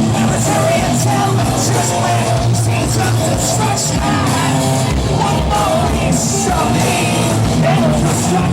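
Heavy metal band playing live, amplified: distorted guitars, bass and drums, with shouted, yelled vocals over the top.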